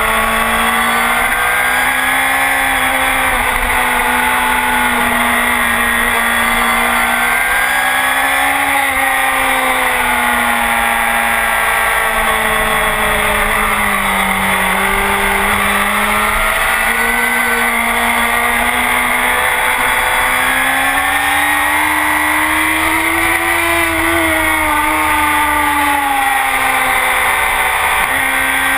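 A Honda CBR1000RR's inline-four engine through a full Akrapovic exhaust, pulling hard on a race track. Its pitch climbs and drops over several seconds at a time, with step changes between gears, as the bike accelerates, shifts and slows for corners.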